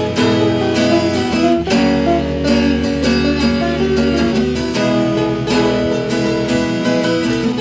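Instrumental music on acoustic guitar, strummed and plucked, with a steady run of notes and chords.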